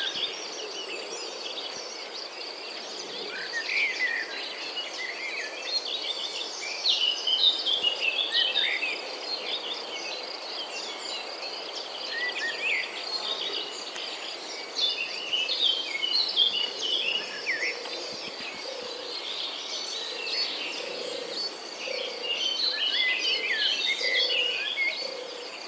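Many small birds chirping and trilling over a steady, high insect drone, like crickets or cicadas.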